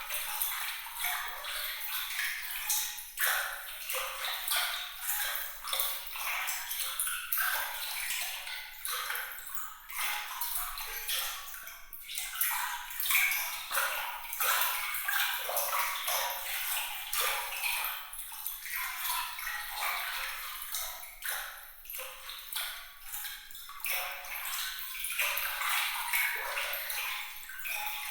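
Water trickling and splashing continuously, a dense stream of small droplet plinks and bubbles, high and bright with no low rumble.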